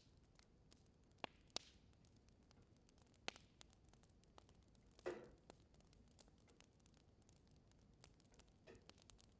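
Wood fire crackling quietly in a fireplace: a few sharp, separate pops and snaps over a faint steady hiss, the loudest about five seconds in with a brief sputter after it.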